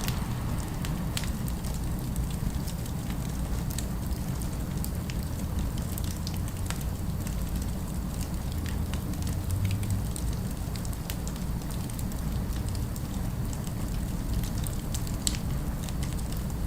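Wood fire crackling, with scattered small pops and snaps over a steady low rumble.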